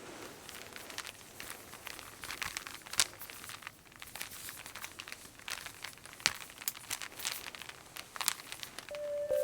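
Irregular soft crackling with scattered sharper clicks, the loudest about three and six seconds in.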